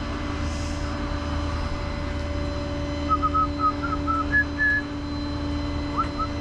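A truck engine running steadily with a constant hum. About halfway through, a quick run of short, high chirps sounds over it.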